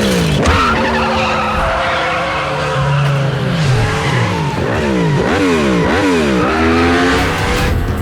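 Several motorcycle engines revving hard, their pitch repeatedly climbing and dropping through quick gear changes, with more than one bike audible at once.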